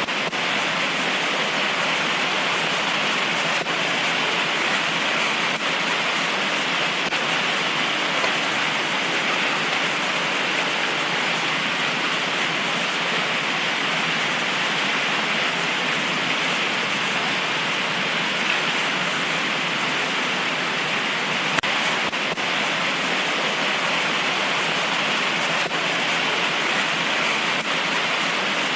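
Heavy tropical rain pouring steadily, an even hiss with a few faint sharp drop ticks here and there.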